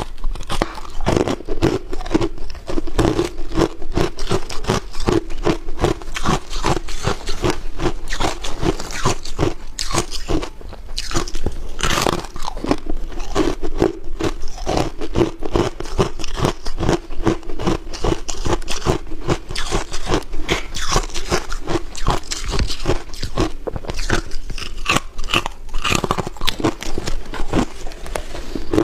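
A person biting and chewing ice, a steady run of sharp crunches several a second.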